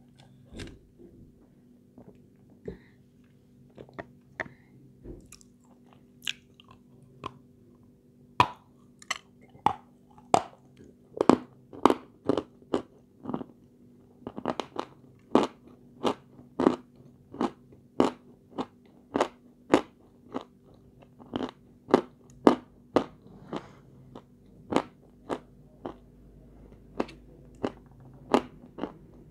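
Close-up crunching and chewing as a person bites into hard, crumbly white chalk-like chunks. The crunches are sparse at first and settle into a steady rhythm of about two a second from roughly eight seconds in, over a faint steady hum.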